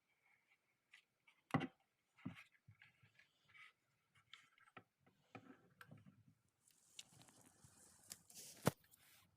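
Faint scattered light clicks and knocks, with a brief rubbing hiss and a sharper click near the end.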